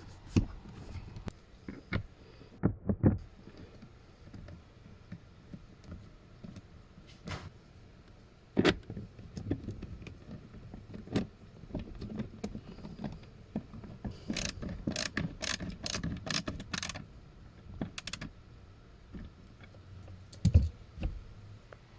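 Scattered clicks, taps and knocks of hand work on car parts, with a quick run of sharp clicks about two-thirds of the way through.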